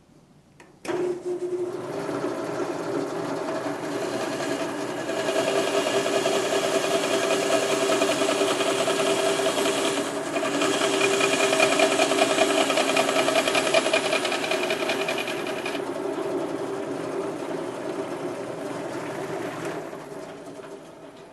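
Vertical band saw blade cutting through a piece of aluminum at about 1,000 feet per minute, a steady whining buzz. It starts suddenly about a second in, grows louder through the middle of the cut and tails off near the end.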